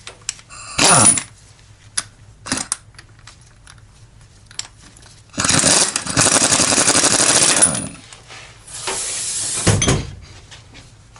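Impact wrench hammering a new flange nut onto a transfer case output shaft: a long run of about two seconds, then a second, shorter burst. A few tool clicks and knocks come before.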